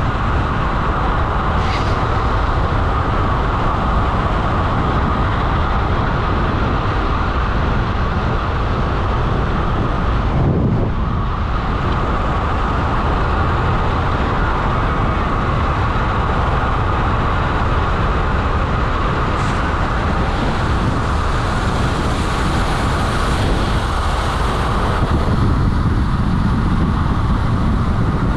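Steady rush of wind buffeting a bike-mounted microphone, mixed with tyre roar from a road bike riding fast on tarmac.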